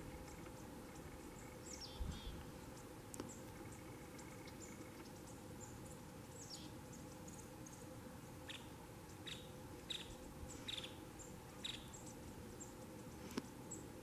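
Small birds calling faintly: short, thin, high-pitched notes that drop in pitch, scattered at first and coming more often in the second half.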